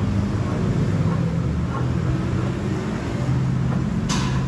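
A steady low mechanical hum, with a short hissing burst about four seconds in.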